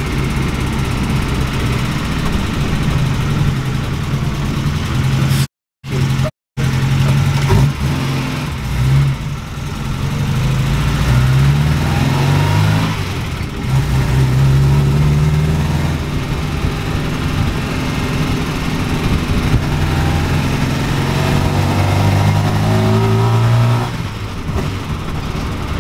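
Ford Pinto four-cylinder engine in a 1969 Ford Capri on a test drive, its note climbing with revs and dropping at each gear change. The valve clearances have just been adjusted, and the driver still hears a rattle from the valve gear. The sound cuts out briefly twice about six seconds in.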